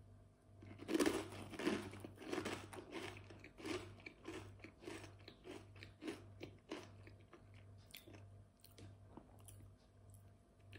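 Close-up chewing of a crunchy snack chip: a loud crunching bite about a second in, then a run of crunchy chews that grow fainter toward the end.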